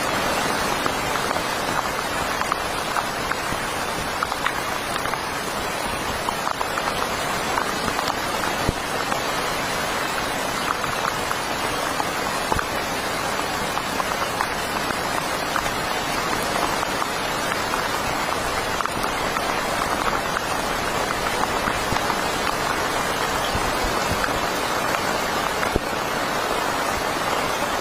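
Heavy rain falling steadily: a dense, even hiss of rain with many small ticks of individual drops striking.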